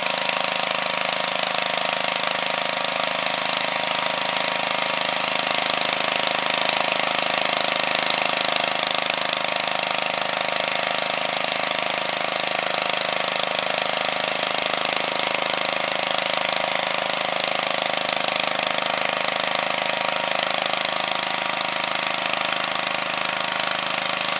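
Walking tractor's engine running steadily, driving a rotary harrow with a mounted seeder, with a constant high hum.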